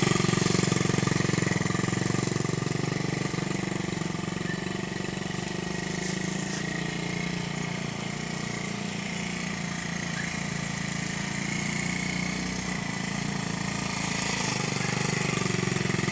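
A children's small motorcycle running steadily as it is ridden, fading through the middle as it moves away and getting louder again near the end as it comes back.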